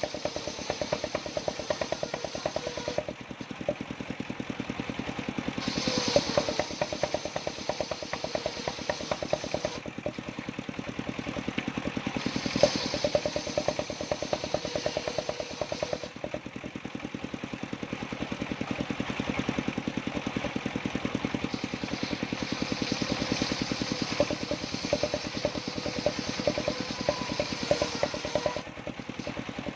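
Engine-driven mobile circular sawmill running with a steady, rapid engine beat throughout. Several times the blade's noise rises for a few seconds and falls away again as it cuts through johar wood.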